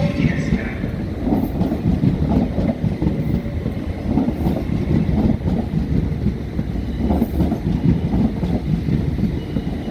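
A train running along the track, a steady rumble of wheels and running gear on the rails.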